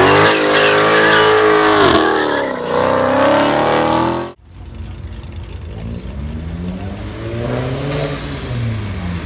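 A car engine revving hard, its pitch climbing and holding, easing off about two seconds in and climbing again, then cutting off suddenly about four seconds in. After it, a quieter car engine rises and falls in pitch as the car accelerates.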